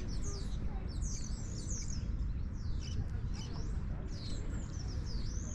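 Small songbirds chirping and singing in quick, high, sweeping notes, over a steady low rumble.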